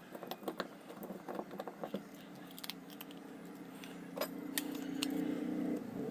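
Light metallic clicks and clinks as small contactor parts (coil, core and frame) are handled. From about four seconds in, a steady engine hum grows gradually louder.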